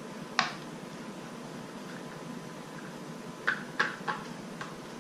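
Sharp plastic clicks and knocks as the co-sleeper's height legs and wheels are pushed onto the frame: one click about half a second in, then three or four in quick succession near the end, over a steady hiss.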